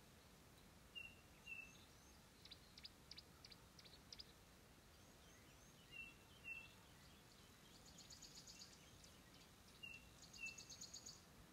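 Faint bird calls: a pair of short falling whistles repeated three times, a few seconds apart, with quick high chirps and rapid trills in between.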